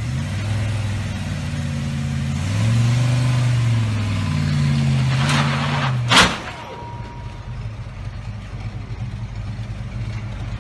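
Car engine revving up and down twice, then one sharp bang about six seconds in, the loudest sound. The engine then runs on more quietly and steadily.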